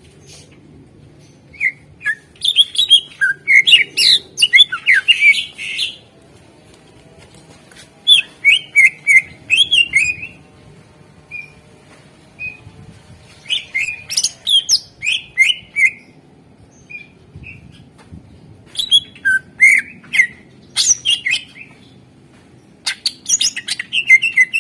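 Cucak ijo (green leafbird) singing in bursts of rapid chirps and sliding whistled notes. Each phrase lasts a couple of seconds, with short pauses between phrases.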